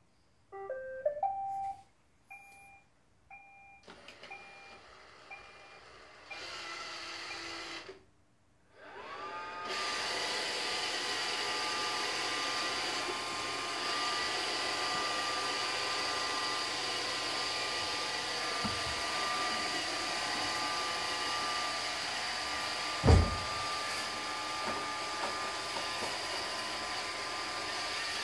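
iRobot Roomba 620 robot vacuum playing a short rising tune and a few beeps, then its vacuum and brush motors spin up and run with a steady whirr. A single thump comes late on.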